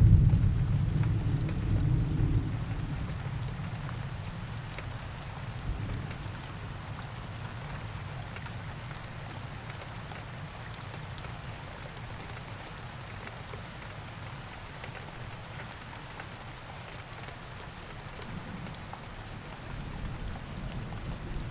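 Steady rain with scattered drop ticks, and a low rumble of thunder in the first couple of seconds that dies away.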